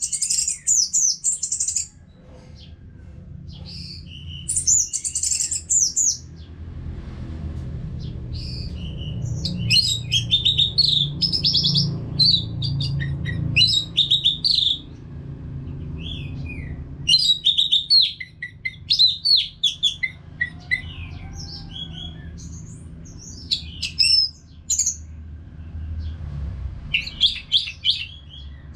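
Orange-headed thrush (anis merah) singing in repeated phrases of rapid, varied high notes, broken by short pauses, over a faint low rumble.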